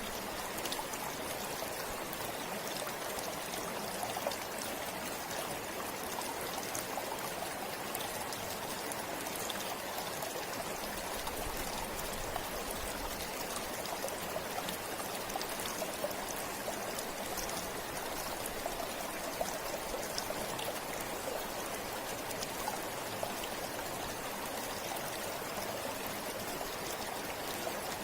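Steady flow of a forest river or stream: a continuous rush of water with small splashes and trickles.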